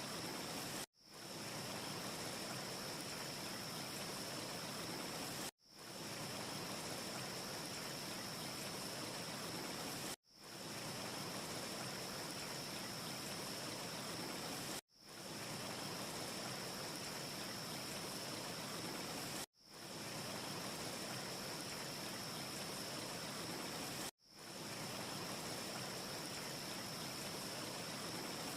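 Steady rushing noise with a faint high hiss held through it and no audible crackle. It comes from a short ambience loop that cuts out abruptly and fades back in about every four and a half seconds, six times.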